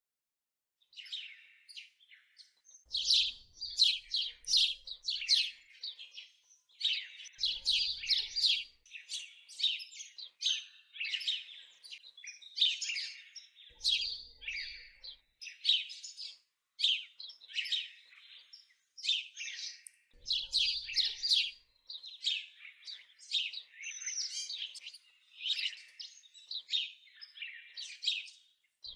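Songbirds chirping and singing in quick, overlapping trills and tweets, starting after a moment of silence about a second in.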